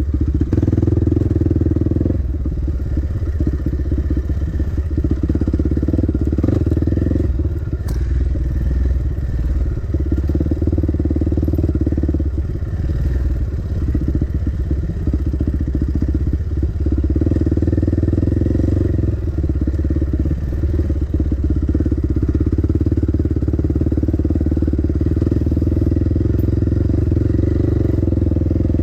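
Dirt bike engine running under way on a trail, its note shifting every few seconds as the throttle changes.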